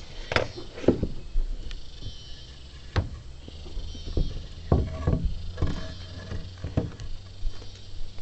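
Irregular wooden knocks and clatter, about eight in all, as pieces of rough timber are handled and set against one another, with a steady low hum underneath.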